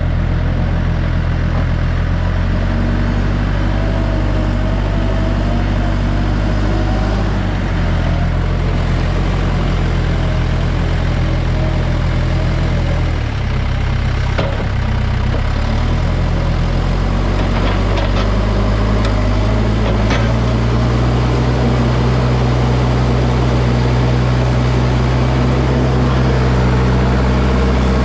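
Backhoe engine running steadily at a low idle; its note changes briefly about halfway through, and a few light clanks follow a few seconds later.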